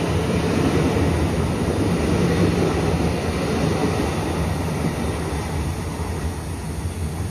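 Taiwan Railways EMU900-series electric train pulling out of the station: a steady rumble of wheels and running gear that eases slightly near the end.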